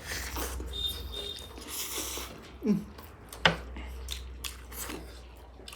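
A person eating close to the microphone: wet chewing and mouth clicks. About two and a half seconds in comes a short low sound falling in pitch, and a sharp click, the loudest moment, follows about a second later.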